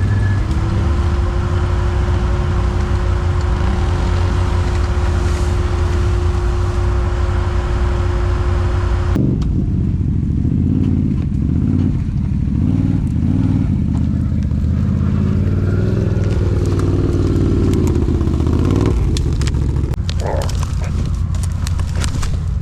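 Quad bike (ATV) engine running, a loud low rumble. A steady hum runs through the first nine seconds and cuts off suddenly, leaving an uneven engine rumble.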